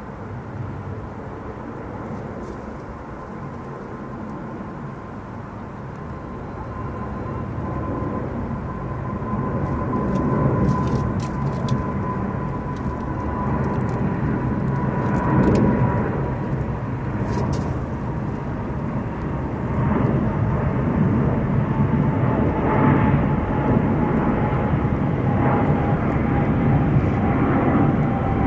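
Airliner's engines growing louder as the plane approaches and passes, a rumble with a steady whine that slowly drops in pitch.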